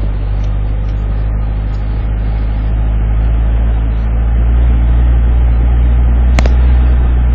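Four-wheel-drive vehicle's engine pulling steadily up a snowy trail, the low drone swelling slightly over the last few seconds. A single sharp knock comes about six seconds in.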